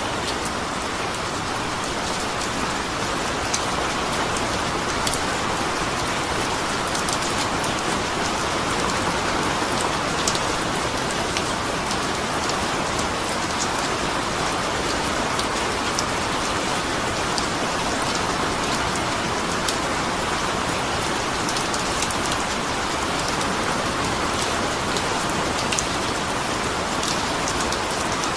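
Steady rain falling, an even hiss with scattered individual drops hitting close by.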